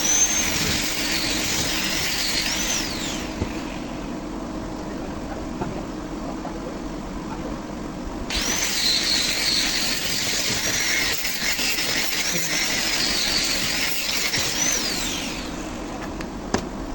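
A handheld power tool cutting holes in a fiberglass boat hull. It runs in two spells, a short one and then a longer one of about seven seconds starting suddenly about eight seconds in, its high whine dipping and rising as it bites and falling away as each spell stops. A steady low hum runs underneath, and there is a sharp click near the end.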